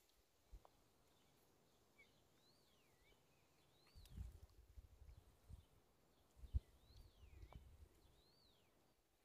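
Faint bird calls: a handful of short arched whistles, each rising and then sliding down in pitch. From about four seconds in, low rumbling thumps join them.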